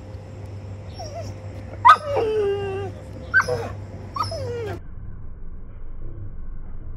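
Dog whining: a sharp yelp about two seconds in running into a long falling whine, then two shorter falling whines, the last ending near the five-second mark. A low steady hum lies underneath.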